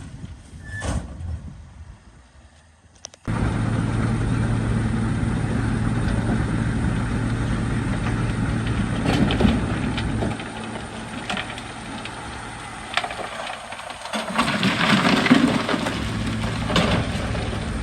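Heavy diesel engine of earthmoving equipment running steadily with a low, even hum and occasional knocks. It comes in abruptly about three seconds in, after a quieter stretch.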